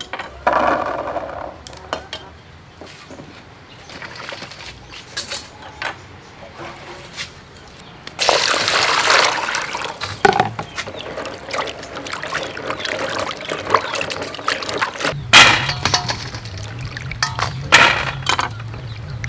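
Water splashing and pouring as raw blue crabs are rinsed and cleaned by hand, with many sharp clicks and knocks of shell being handled. A low steady hum comes in about three-quarters of the way through.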